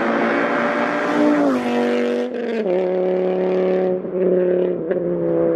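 Mk5 Volkswagen Rabbit's 2.5-litre inline five-cylinder engine at high revs, a note likened to a V10. Its pitch drops in two steps, about a second and a half in and again about halfway through.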